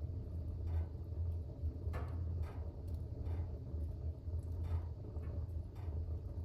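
Fire burning in a fireplace: irregular crackles and pops, roughly one or two a second, over a steady low rumble.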